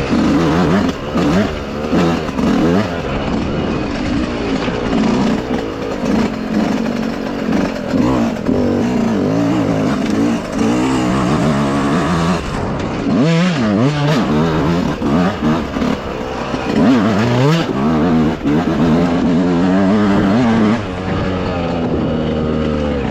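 Dirt bike engine revving up and down under riding, its pitch rising and falling with throttle and gear changes. The pitch drops sharply twice, about halfway through and again a few seconds later.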